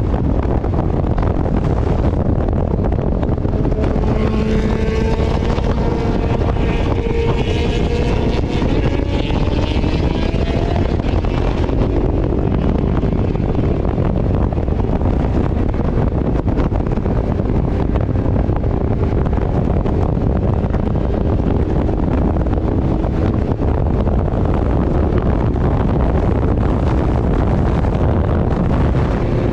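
Heavy wind noise buffeting the microphone on a moving motorcycle, steady throughout. A faint engine note rises in pitch between about four and twelve seconds in.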